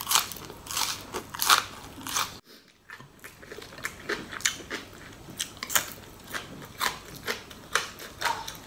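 Close-up crunchy chewing and biting of crisp deep-fried pork larb and a raw green vegetable stalk, a run of irregular crackly crunches. The sound drops out briefly about two and a half seconds in.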